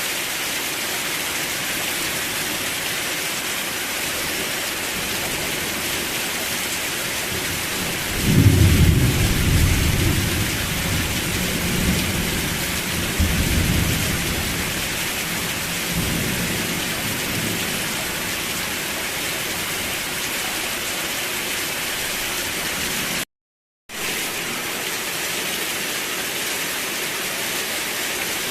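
Steady rain with a roll of thunder rumbling in about eight seconds in, swelling a few times and dying away over about eight seconds. All sound cuts out for about half a second a little past the twenty-second mark.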